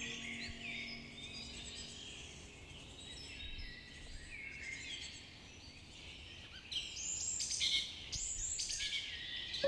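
A chorus of many birds chirping and singing over one another, the calls thicker and louder from about seven seconds in. Soft held music tones fade out in the first couple of seconds.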